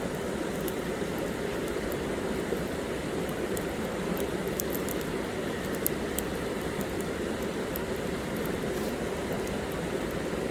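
Campfire burning: a steady rush of flame with many small, irregular crackles and pops from the burning wood.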